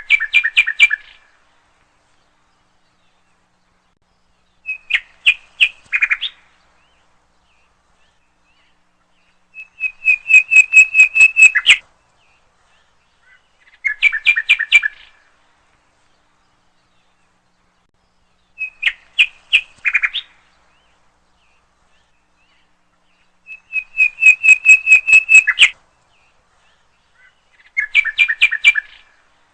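A songbird singing in short phrases: seven times, a quick run of rapidly repeated notes lasting a second or two, with a few seconds of silence between phrases.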